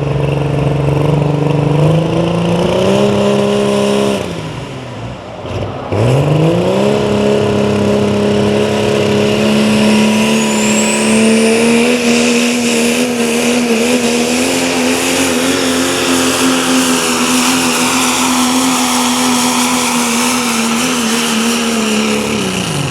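Pulling truck's engine revving hard under load during a sled pull: it climbs in pitch, eases off briefly about four seconds in, then revs back up and holds high, steady revs until it backs off at the very end.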